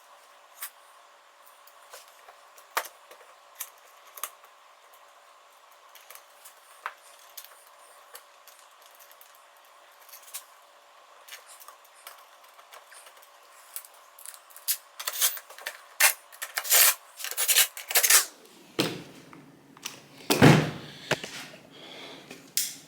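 Scattered clicks and clinks of metal parts and hand tools being handled during motorcycle assembly. They thicken into a burst of clattering late on, then a heavier knock about three seconds before the end.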